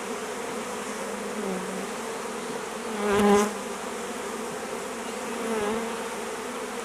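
A swarm of honeybees buzzing steadily. About three seconds in, one louder buzz swells briefly and fades.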